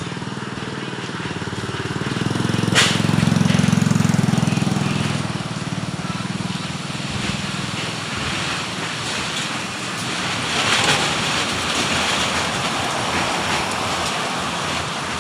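Heavy rain and strong wind, a steady loud hiss. A motor vehicle's engine hum swells and fades about two to six seconds in, with one sharp click near three seconds.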